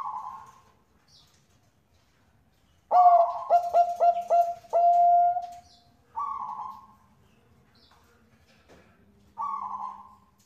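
Zebra dove (perkutut bangkok) singing. It gives a short coo, then about three seconds in a quick run of five coos ending in a long drawn-out note, followed by two more short coos.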